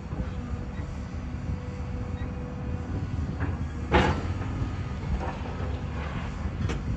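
Demolition machinery running with a steady low engine rumble. Several crashes of breaking and falling debris come over it, the loudest about four seconds in.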